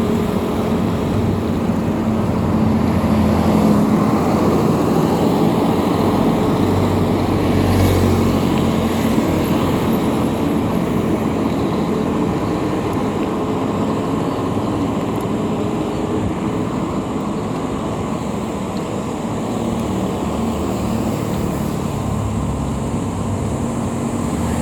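Steady low rumble of riding along a road: wind on the microphone mixed with vehicle and road noise. A faint steady hum shows most clearly near the start and near the end.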